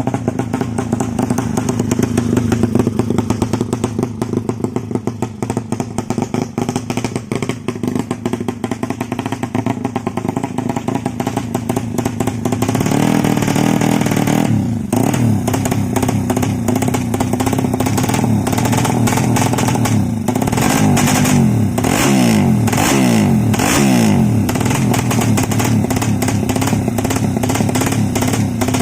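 Ported Suzuki Satria FU racing motorcycle engine running during tuning: a steady fast idle for the first half, then from about halfway it gets louder and is revved up and down several times.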